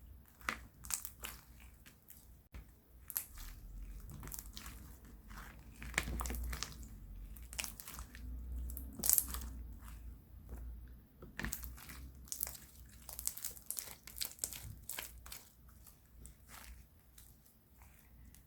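Irregular crinkling and crunching sounds: many short, sharp crackles in quick uneven succession, close to the microphone.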